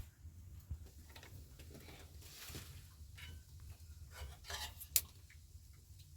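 A few faint, scattered clicks and knocks over a steady low hum, with one sharper click about five seconds in.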